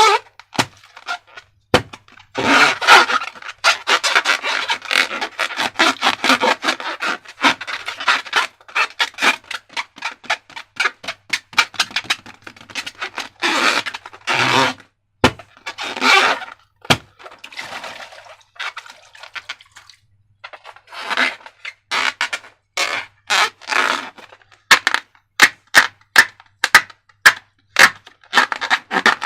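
Slime being handled and worked by hand along with rubber balloons: sticky crackling and rubbing in irregular stretches, with many sharp little clicks that come thick and fast near the end.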